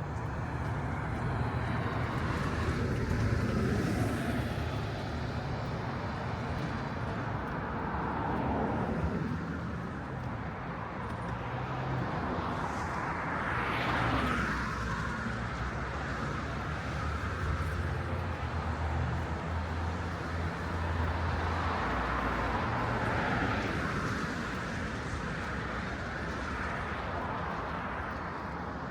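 City street traffic: several cars pass one after another with swelling tyre and engine noise, the closest and loudest about halfway through. A low engine drone runs for a few seconds in the second half.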